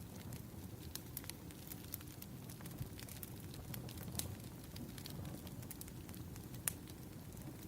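Burning firewood crackling: a steady low rumble with irregular small pops and snaps, and one sharper pop about two-thirds of the way in.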